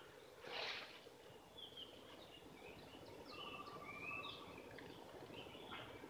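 Faint chirps and short whistled notes of small wild birds, scattered through the quiet, with a brief rustle about half a second in.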